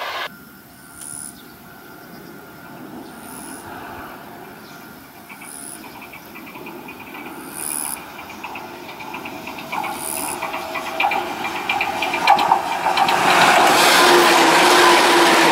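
Omi Railway 800 series electric train (the red-and-beige 'Akaden') approaching and running over a level crossing, growing steadily louder with its wheels clicking over the rail joints and a steady motor hum, loudest near the end as it passes close by.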